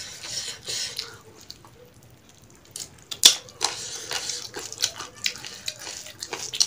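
Close-up wet chewing and lip-smacking from people eating chicken and rice with their hands: a run of short wet smacks and clicks. It goes quieter for about a second from about a second and a half in, and the sharpest smack comes a little after three seconds in.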